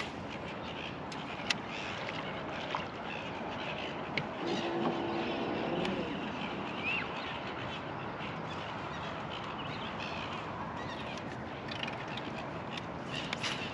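Open-air river ambience: a steady hiss with scattered bird calls, including one held call at a steady pitch a little past four seconds in, plus a few faint clicks.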